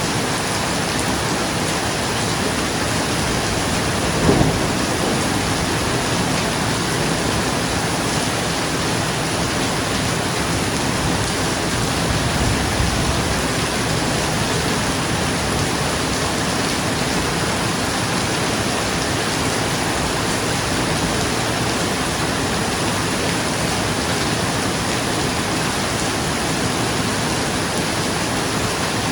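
Steady, heavy rain falling on a roof, with a short clap of thunder about four seconds in and a softer low rumble of thunder around twelve seconds.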